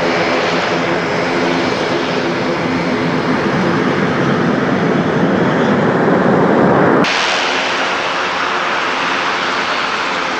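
Airbus A400M's four turboprop engines running loud and steady, a propeller drone with a pitched hum that grows rougher and louder, then changes abruptly about seven seconds in.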